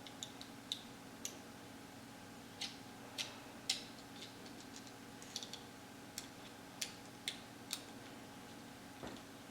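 An Allen wrench clicking and ticking against the small screws in the metal front cap of a bike headlight as they are undone. The clicks are light, sharp and irregular, about a dozen in all.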